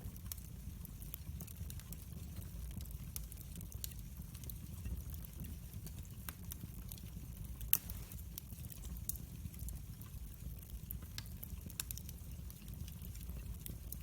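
Wood fire burning in a fireplace: a steady low rumble of the flames with scattered sharp crackles and pops, one louder crack a little over halfway through.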